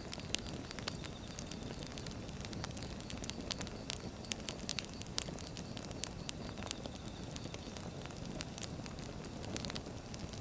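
Wood fire burning: a steady low rush of flames with frequent sharp, irregular crackles and pops from the burning logs.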